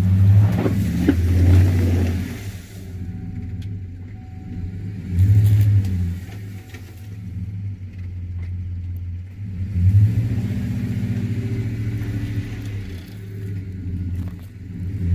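Pickup truck engine revving in three hard surges, easing off between them, as the truck strains against a heavy load on soft, wet ground.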